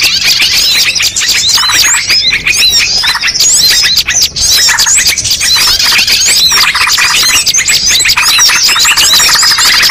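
Many small birds chirping and twittering at once in a loud, dense, continuous chorus of rapid repeated calls: a bird-lure (pikat) recording meant to call in birds of all kinds.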